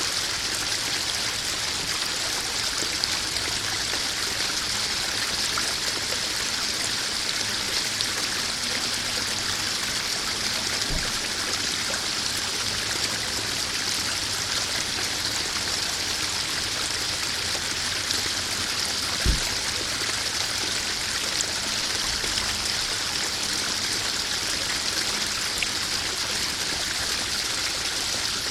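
Small garden waterfall splashing steadily into a koi pond, a continuous running-water sound with a brief low thump twice.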